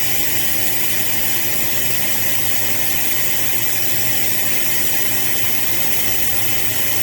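Air-powered venturi vacuum brake bleeder running on compressed air, hissing steadily as it pulls vacuum on an opened brake bleeder screw, with a steady low hum underneath.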